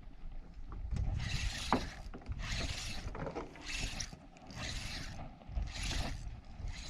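Fishing reel being cranked to retrieve the line, in rasping bursts about once a second with short pauses between.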